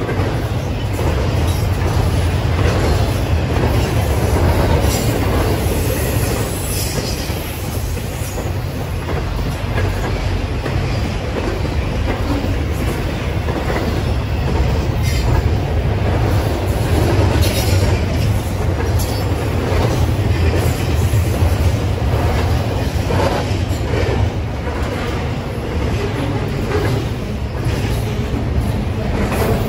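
Train rolling past: a steady low rumble of the cars, with repeated clicks and brief high wheel squeals throughout.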